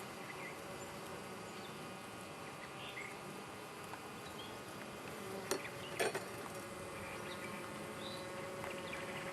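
Honey bees buzzing steadily around an open hive: a dense hum of many wings. Two faint clicks come about five and six seconds in.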